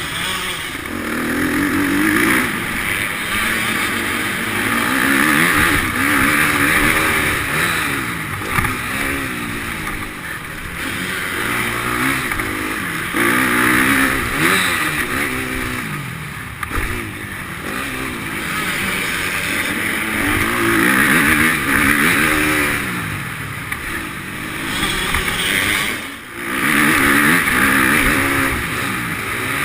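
Motocross bike engine revving up and dropping off again and again as the throttle is worked, its pitch climbing and falling every couple of seconds, with a brief lull about 26 seconds in.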